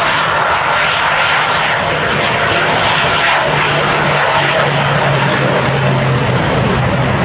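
Super Shockwave jet truck's jet engines running at full power on a high-speed run: a loud, steady rushing noise with a held whine and a low hum underneath.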